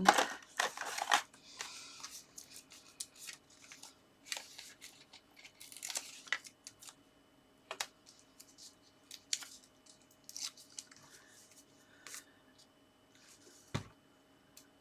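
Paper and card being handled: short crackly rustles and light taps as cut-out paper toppers are moved and set onto a card. There is a single louder knock near the end.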